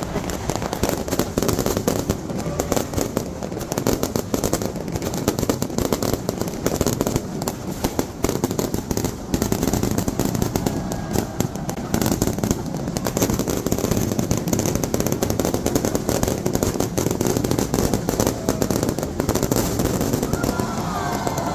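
Fireworks display going off in a dense, continuous barrage of rapid bangs and crackles, with no let-up.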